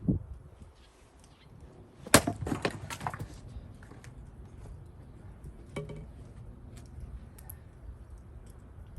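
A Gränsfors Bruk axe strikes a cherry log round about two seconds in, and the wood cracks and splinters apart in a quick string of cracks over the next second. A lighter wooden knock comes a few seconds later.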